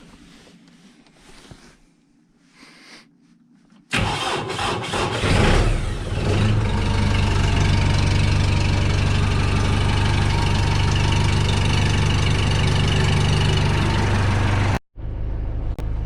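Kubota M6040 tractor's diesel engine cold-starting: it catches suddenly about four seconds in, then settles into a steady idle to warm up. It stops abruptly near the end.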